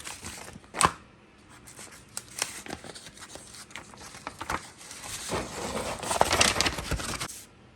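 Paper being torn open and crinkled, with a sharp click about a second in and a louder stretch of tearing and rustling near the end.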